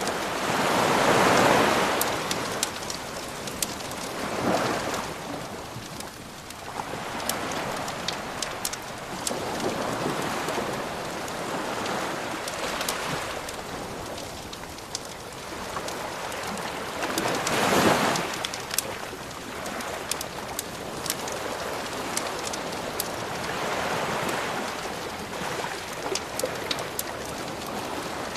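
Waves washing in on a shore, swelling and falling away every few seconds, the biggest about a second in and again near the middle. Over them a wood fire crackles and pops.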